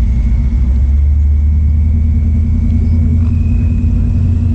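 Car engine and exhaust giving a deep, steady rumble while moving slowly, with a faint high whine that steps up in pitch about three seconds in.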